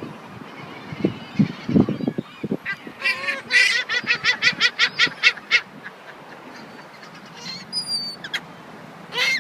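Seagulls calling: a fast run of short, harsh, repeated calls, about four a second, from about three seconds in, with a few thin high calls near the end. A few low thumps come about a second in.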